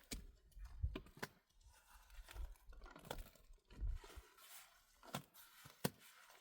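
Faint handling sounds: a few sharp clicks and soft thuds spread over several seconds, with light rustling between them.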